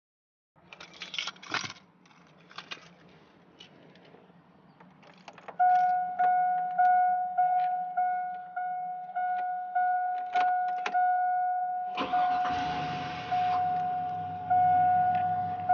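Keys jingling and clicking, then a pickup truck's warning chime pinging repeatedly, a little under twice a second. About twelve seconds in, the truck's engine cranks and starts, then runs at idle under the still-pinging chime.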